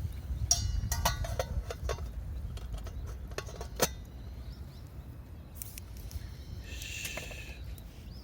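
Camp dishes and utensils clinking against each other several times, then a single sharp knock, over a steady low rumble. A short, high, pitched sound comes about seven seconds in.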